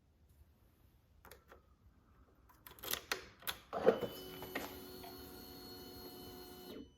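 Faint scattered clicks, then a knock about four seconds in followed by a faint steady electric hum of several fixed pitches that cuts off abruptly just before the end.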